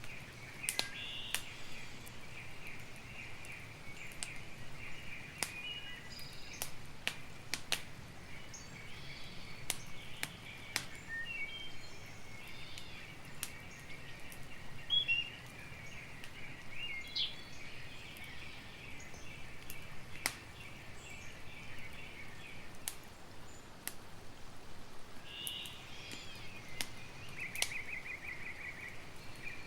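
Campfire crackling with frequent sharp pops, over a steady high-pitched chorus of insects and scattered bird chirps; a short, fast trill sounds near the end.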